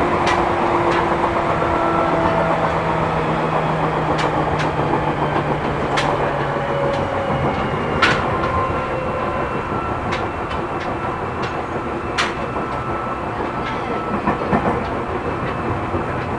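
Running noise heard inside a Seibu New 2000 series electric train car at speed: a steady rumble of steel wheels on rail, with faint humming motor tones that die away about seven seconds in, and a few sharp clacks at irregular intervals as the wheels pass rail joints.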